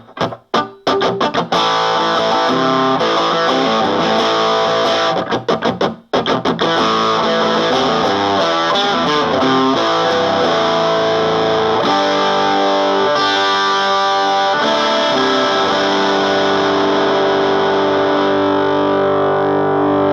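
Electric guitar played through the Round Digital Sound GX-25 25-watt amp's distortion channel, gain at 4 and EQ at the middle: choppy chord stabs with short stops between them, then about six seconds in, continuous chords, with one chord held and ringing near the end. A punk-rock style distorted tone.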